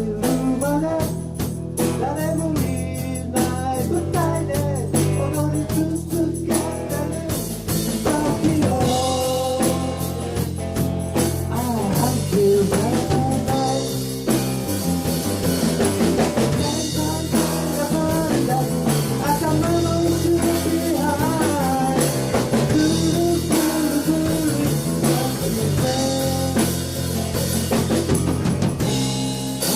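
Live rock band performing a song: a singer's voice over drum kit, guitar and bass.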